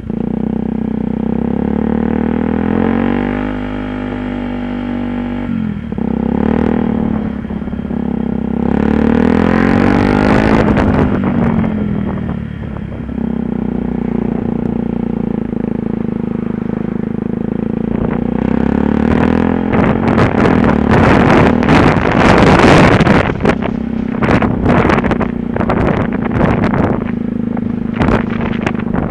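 Yamaha WR125R's single-cylinder four-stroke engine running as the bike is ridden, its pitch rising and falling with throttle and gear changes. Loud rushing wind noise sweeps over it twice, in the middle and later on.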